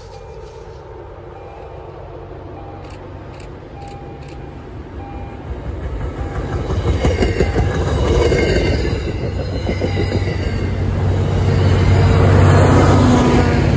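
MBTA commuter rail train passing along the track, cab car leading and a diesel locomotive pushing at the rear. Its rumble and wheel-on-rail noise build from about five seconds in as it nears, and are loudest near the end as the locomotive goes by.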